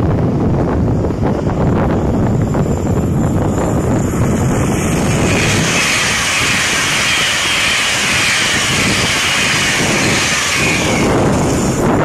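LNER Class 801 Azuma electric train passing at speed, a steady rushing pass that comes in about halfway through and lasts some five seconds before fading near the end. Heavy wind buffets the microphone, loudest before the train arrives.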